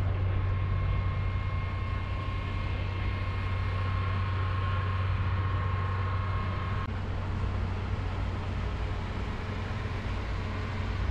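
An engine running steadily at idle, a constant low hum, with a faint high steady tone that stops about seven seconds in.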